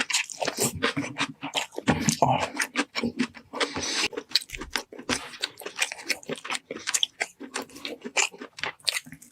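Close-up chewing and biting into roast meat: irregular wet mouth clicks, smacks and crunches.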